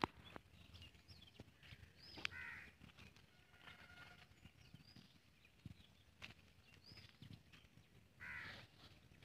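Birds calling faintly outdoors: scattered short calls and chirps, with a slightly louder call a little after two seconds in and again near the end.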